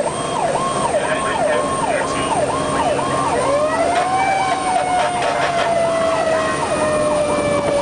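Fire engine sirens sounding on an emergency response: an electronic siren in a fast yelp, about two rising sweeps a second. A second, lower siren tone rises about three seconds in and then slowly falls, over the noise of the truck.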